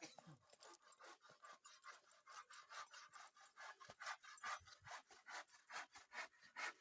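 Hand saw cutting wood, a faint rasping in quick, even strokes.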